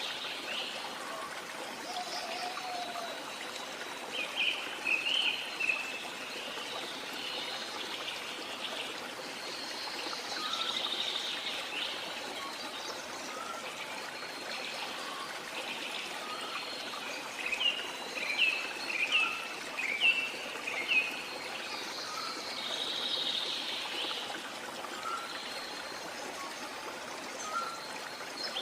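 Rainforest ambience: a steady hiss of falling water under scattered bird calls. A cluster of quick chirping notes comes a few seconds in, and a louder run of short, sharp, repeated notes comes past the middle.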